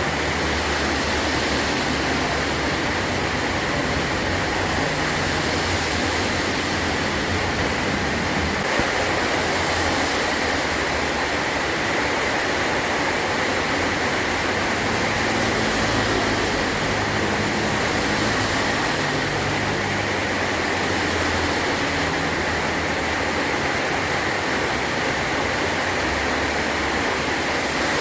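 Heavy rain falling steadily on a metal roof, a dense even hiss with a low rumble underneath.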